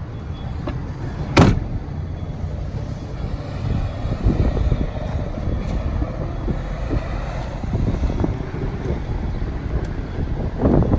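A pickup truck door shutting with a single sharp thump about a second and a half in, over a steady low outdoor rumble.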